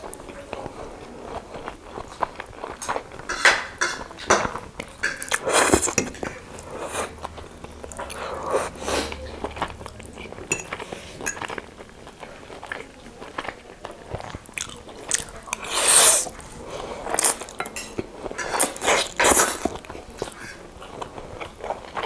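Close-miked eating of prawn spaghetti in red sauce: wet chewing and slurping of noodles, with a fork clinking and scraping on the plate. The mouth sounds come unevenly, with louder bursts about six, sixteen and nineteen seconds in.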